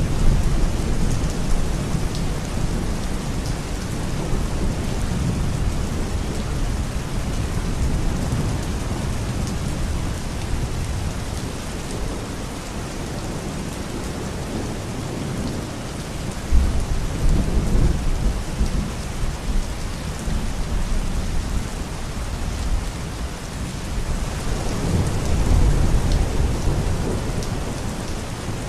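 Steady heavy rain, with low rolls of thunder swelling near the start, about 17 seconds in, and again about 25 seconds in.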